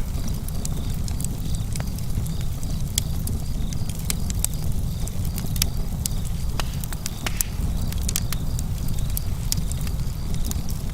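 Campfire crackling: irregular sharp snaps and pops from the burning wood over a steady low rumble.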